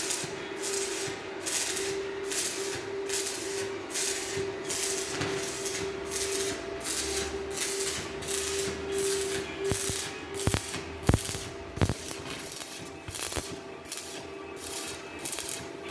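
Rhythmic rasping strokes of a hand tool worked back and forth on a pipe, about two strokes a second, with a few sharp clicks in the middle.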